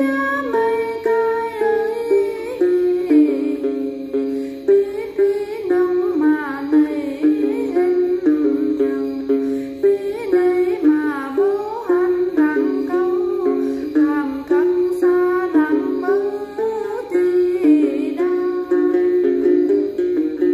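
Đàn tính, the long-necked gourd lute of Then music, plucked in a quick, steady run of notes.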